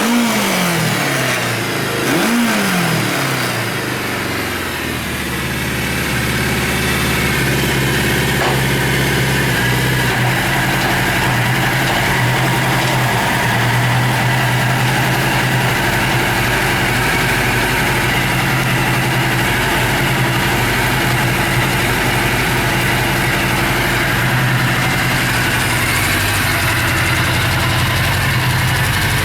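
Suzuki GS750's air-cooled inline-four engine blipped twice in the first few seconds, then settling into a steady idle.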